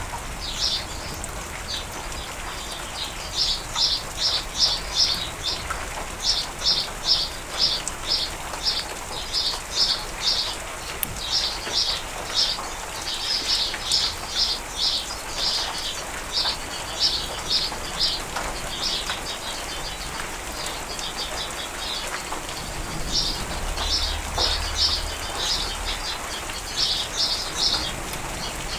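Steady rain falling, with a bird calling over it in runs of short, high, repeated chirps, about four a second, broken by brief pauses. A faint low rumble comes in about three-quarters of the way through.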